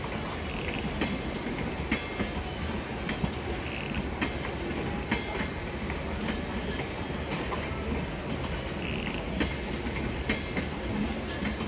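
Local passenger train running along the track: a steady rumble, with wheels clicking over rail joints at irregular intervals.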